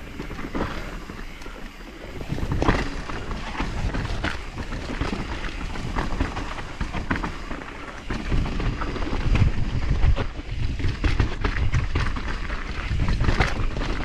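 Mountain bike ridden over a rough dirt trail: wind buffeting the camera microphone, with tyre rumble and frequent rattles and knocks from the bike.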